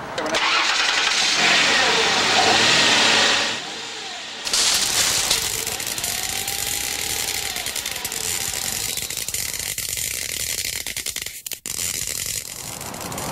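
Electric bird-feeder zapper buzzing and crackling loudly as it electrocutes a bird, breaking off briefly about four seconds in and then starting again.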